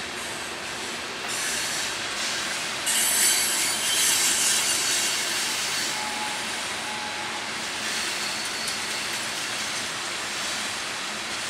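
Covered hopper cars of a freight train rolling past, wheels running on the rails. A high-pitched wheel screech rises over the rolling noise about three seconds in and is loudest for the next few seconds before easing back.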